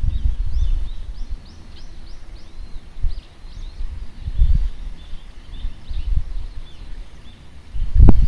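A bird chirping over and over in short, high, repeated notes over a low, gusting outdoor rumble. A loud thump comes near the end.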